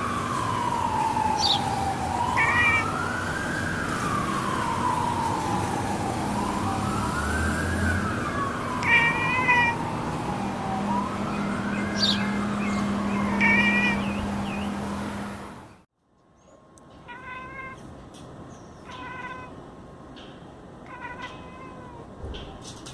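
A siren wails, rising and falling about every four seconds, while a black and white cat gives a few short chirps at birds. About two-thirds of the way in the siren cuts off abruptly, and the cat goes on chirping in short stuttering calls every second or two.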